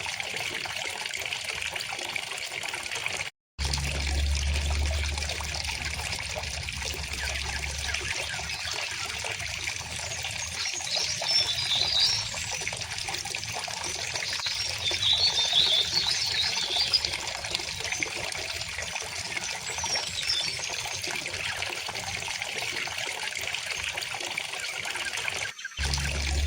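River water flowing steadily over stones, with bursts of bird chirping a few times in the middle. The sound cuts out completely for a moment about three seconds in.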